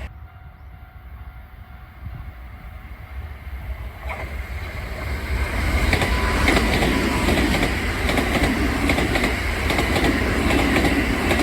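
Kintetsu Nara Line electric train approaching, growing louder from about four seconds in, then running past with its wheels clacking over the rail joints.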